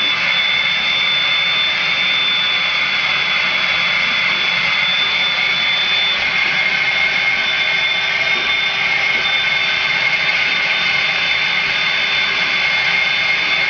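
Vacuum cleaner running steadily with a high whine, being drawn through an Alaskan malamute's coat.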